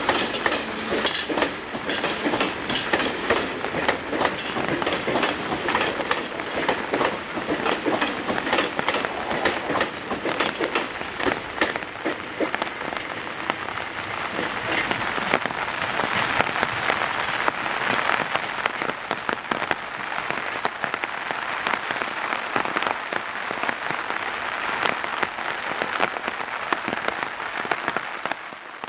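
A train's wheels clicking over rail joints amid steady rain. The clicks are densest in the first half, and later the rain noise dominates.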